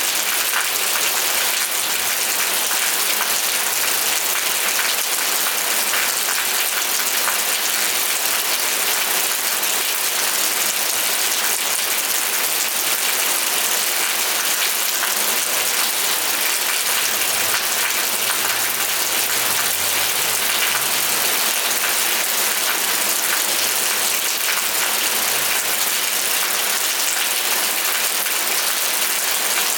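Steady rain falling on a surface, a dense even hiss with fine crackling drops. A faint low rumble sits beneath it in the second half.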